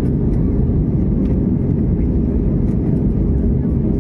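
Steady cabin noise of a jet airliner in flight: a constant low rumble of engines and rushing air heard from inside the passenger cabin.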